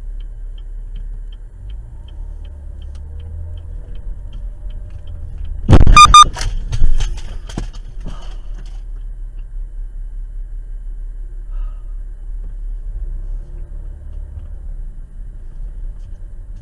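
Car collision heard from inside a vehicle: steady road rumble with a light rapid ticking, then about six seconds in a sudden loud crash of sharp impacts with a brief ringing tone, followed by a few smaller knocks and clatter before the rumble settles again.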